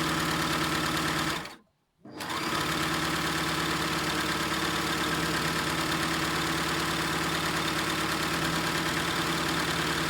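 Overlock serger sewing machine running at a steady speed. It stops briefly about one and a half seconds in, then starts again and runs steadily.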